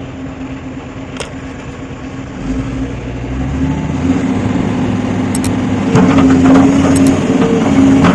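Hitachi excavator's diesel engine running under load, growing louder over the seconds, with a few sharp metallic clanks from the working machine.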